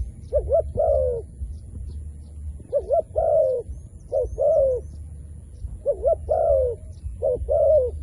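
A dove cooing in about five short phrases, each a quick double note followed by a longer falling coo, with faint high chirps of small birds in the background.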